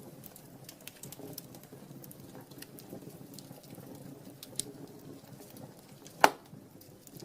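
Wood fire burning in a fireplace, with a low steady rush of flames and scattered small crackles. About six seconds in, one loud sharp pop of the burning wood.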